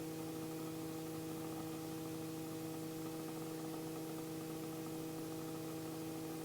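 Robinson R44's low rotor RPM warning horn sounding as a steady buzzing tone over the intercom, triggered because rotor RPM has been pulled down below its limit during the warning horn check.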